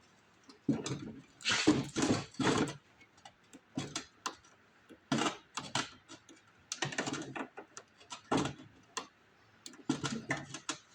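Pliers and hands working a fuel line and its clamp off a small engine's carburetor: irregular bursts of small clicks, knocks and rattles.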